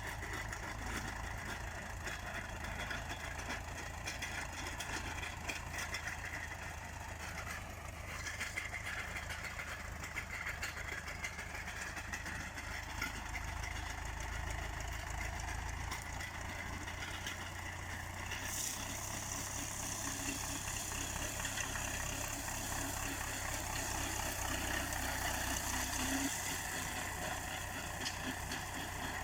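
MTZ-82 tractor's diesel engine running steadily under load while it drives a KRN-2.1 rotary mower cutting grass and alfalfa. About two-thirds of the way through, a high hiss comes in and stays.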